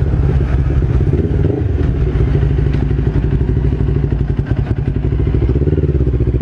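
Motorcycle engine running with a steady, low pulsing rumble.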